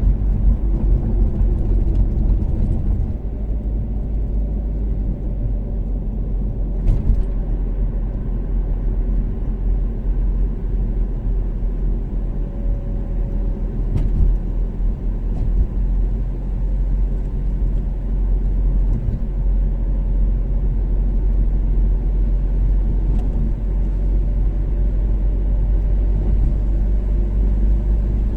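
Toyota Caldina ST246W's turbocharged 3S-GTE four-cylinder cruising at expressway speed: a steady low engine drone mixed with tyre and road rumble, with a couple of faint ticks.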